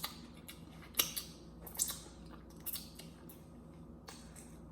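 Close-miked eating of rotisserie chicken: scattered soft clicks and wet smacks of chewing and handling food, several within a few seconds, over a faint low hum.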